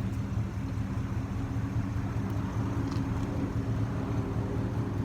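Ford F150's 6.2-litre V8 engine idling steadily, a constant low hum.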